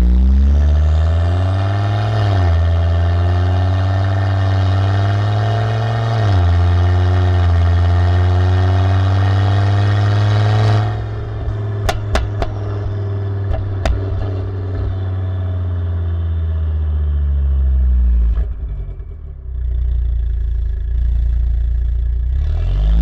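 Volvo S60R's turbocharged inline-five through a custom exhaust with a 3-inch downpipe, accelerating hard through the gears: the note rises, drops at two upshifts and climbs again. It then lifts off with a few sharp pops, and the engine note falls as the car slows. Near the end it starts pulling again.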